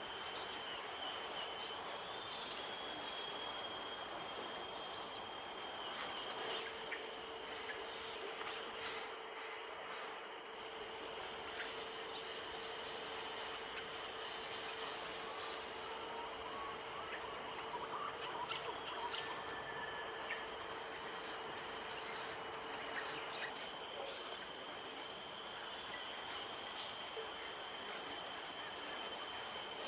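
Steady chorus of insects, several unbroken high-pitched trills layered together. A fainter low steady hum joins about six seconds in and stops about two-thirds of the way through.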